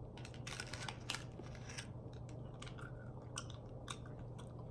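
Quiet chewing of a small piece of gum candy, with scattered small clicks and crackles from the mouth and its paper wrapper, over a steady low hum.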